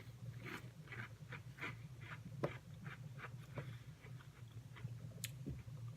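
Someone chewing a crunchy coconut butter cookie close to the microphone: faint, irregular crunches a few times a second over a low steady hum.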